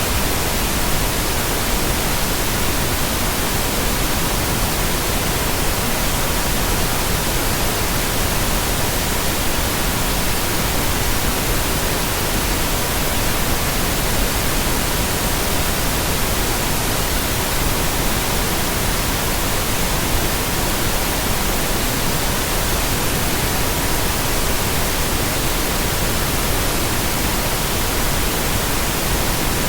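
Steady, unchanging pink noise with a faint continuous tone near 963 Hz mixed in.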